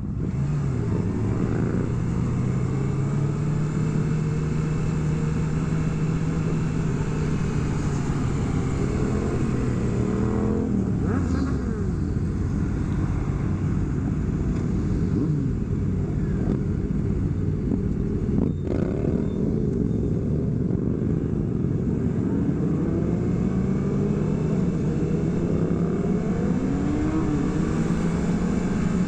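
Motorcycle engines running during a group ride, their pitch rising and falling with throttle and gear changes, over a steady rush of noise. One sharp click about eighteen seconds in.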